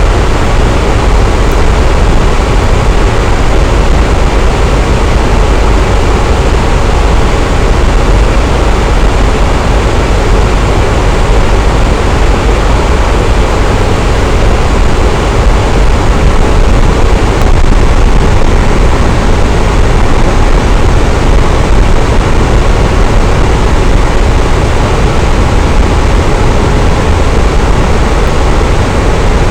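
Electric fan running steadily: an even rushing whoosh of moving air with a deep low hum.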